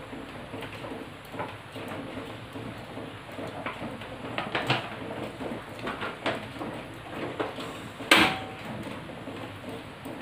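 Kitchen handling sounds: cooking oil poured into a frying pan, with light knocks and rustles of the oil pouch. About eight seconds in, one loud sharp click as the gas stove's burner is lit.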